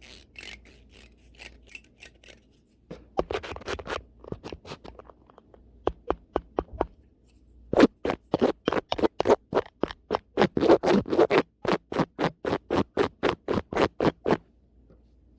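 A brush swept fast and hard across a microphone in quick repeated strokes, a few a second. The strokes grow louder about halfway through and stop shortly before the end.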